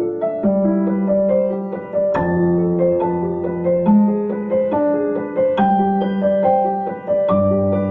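Background piano music: a slow melody of single notes over held low notes.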